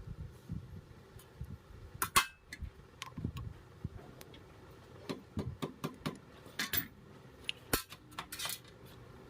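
Metal tools and starter-motor parts clinking and knocking against each other and a work surface, in irregular sharp clicks; the loudest knock comes about two seconds in.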